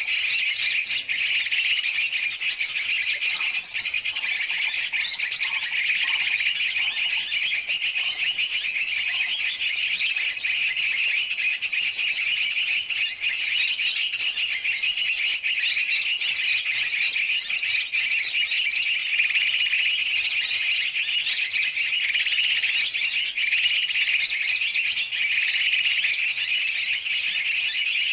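Many birds, large and small, chirping and twittering together in a dense, noisy, unbroken chorus. It is a bird-lure (pikat) recording used to draw in birds such as yellow-vented bulbuls.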